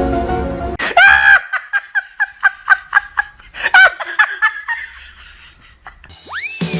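Background music stops, then a high cartoon voice cries out and breaks into a quick run of short laughs lasting about three seconds. Near the end a rising slide-whistle-like sound effect leads back into music.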